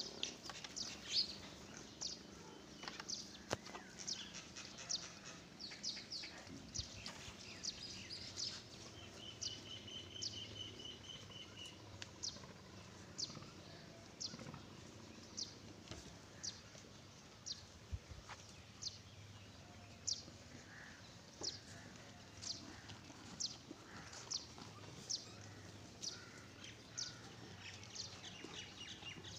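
Small bird chirping over and over: short, high, downward-sliding chirps about one a second, with a brief rapid trill about ten seconds in.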